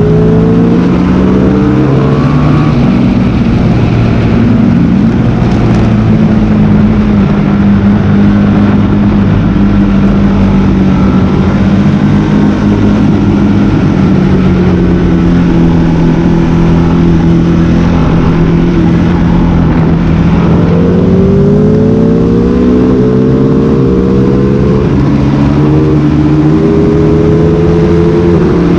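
Sport motorcycle engine heard from on board on a racetrack, with steady wind rush. Its pitch holds roughly level through the middle, then near the end climbs in several steps with short drops between them as it accelerates up through the gears.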